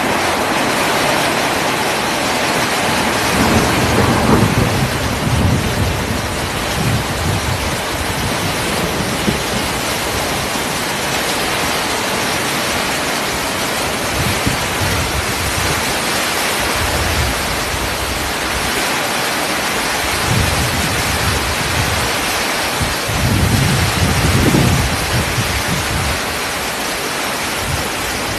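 Very heavy rain pouring down as a dense, steady hiss, with low rumbles swelling about four seconds in and again near the end.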